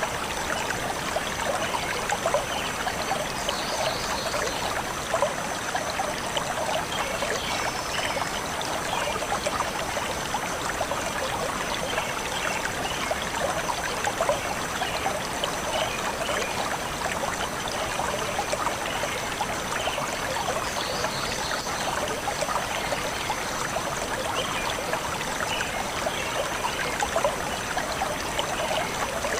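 Stream flowing steadily over rocks in a continuous, even rush of water, with a few brief high chirps from birds.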